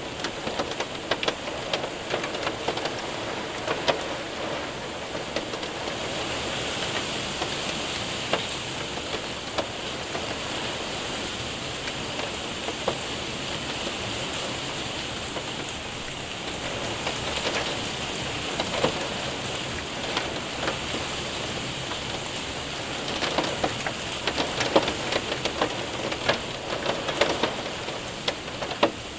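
Rain and hail hitting a window and roof: a steady hiss of rain with many sharp ticks of hailstones striking, coming thicker near the end.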